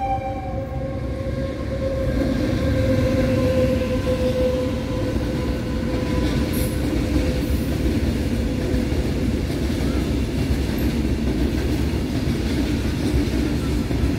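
Horn of a WAG-9 electric locomotive sounding one long steady note that fades out about halfway through. Beneath it, the rolling rumble and wheel clatter of a long freight train of covered wagons grows louder and then holds steady as the wagons pass.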